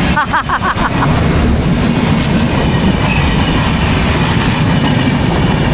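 A train running past close by on the rails: a loud, steady rumble of wagons and wheels.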